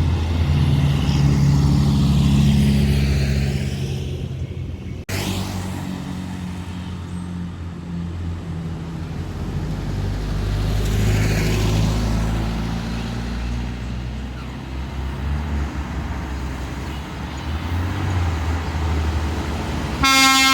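Heavy diesel engines of dump trucks and excavators running, rising and falling in swells. A loud horn toot sounds right at the end.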